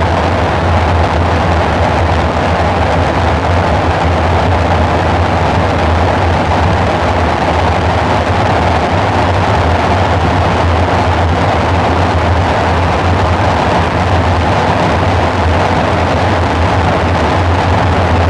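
Dark ambient synthesizer drone: a steady low hum under a dense, rushing noise layer, unchanging throughout.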